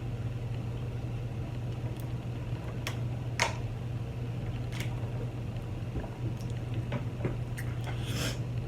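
Someone eating chili cheese fries: scattered short clicks and wet mouth sounds of chewing, with one sharper click about three and a half seconds in, over a steady low hum.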